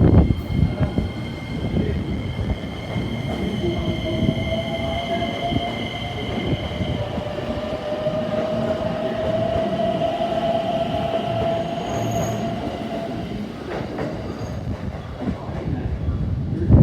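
Electric commuter train, a JR West 225-5000 series EMU, running on the rails with clattering wheel noise under high held tones of wheel squeal and a slowly rising whine. There is a sharp knock near the end.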